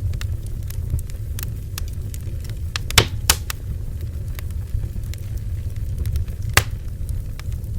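Bonfire burning: a steady low rumble of flames under frequent sharp crackles and pops of burning wood, with louder pops about three seconds in and again past six seconds.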